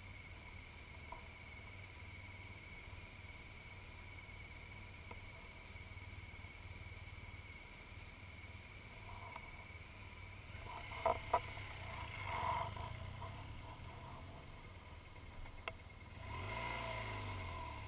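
BMW R1200GS Adventure's boxer twin idling quietly, with a couple of sharp clicks about eleven seconds in. Near the end the engine revs as the bike pulls away.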